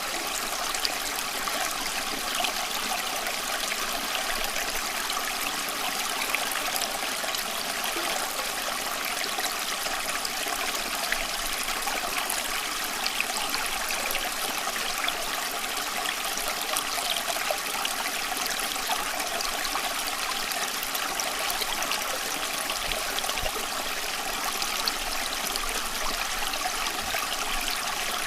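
Running water flowing steadily, like a stream or brook, an even rushing hiss with small splashes and trickles popping through it.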